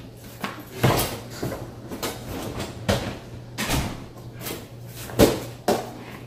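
A dishwasher being tugged and jostled out of its cabinet opening: about five sharp knocks and bangs of the machine against the cabinetry and floor, over a steady low hum.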